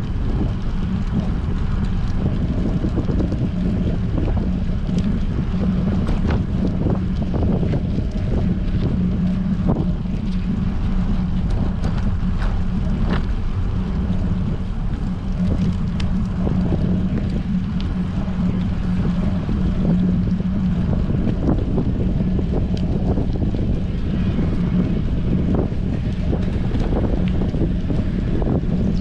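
Strong wind buffeting a GoPro action camera's microphone during a bike ride: a steady, loud rumble with scattered short clicks.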